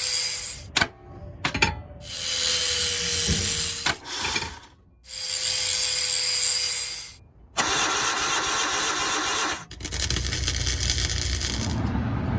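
Car engine turning over on its starter in several separate runs that break off suddenly, with a few sharp clicks between them; from about ten seconds in, a steadier low rumble.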